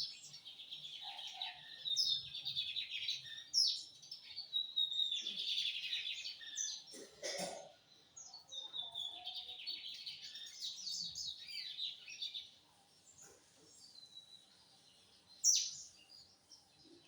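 Lined seedeater (bigodinho) singing: fast phrases of chirping notes repeated with short breaks, fainter for a couple of seconds near the end, then one sharp high note.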